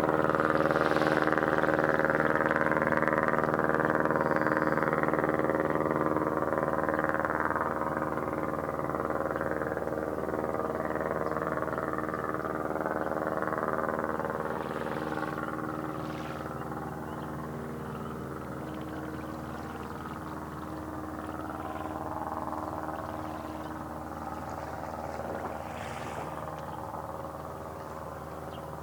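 An engine drones steadily with an unchanging pitch, slowly fading as it moves away. A few short, faint high sounds come over it.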